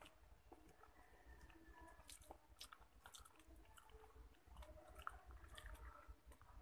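Faint chewing with soft, wet mouth clicks from a person eating fried food and rice by hand, close to the microphone.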